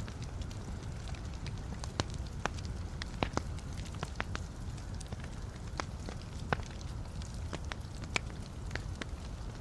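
Wood fire burning in a fireplace: a steady low rumble of flames with irregular sharp crackles and pops from the burning logs, a few each second.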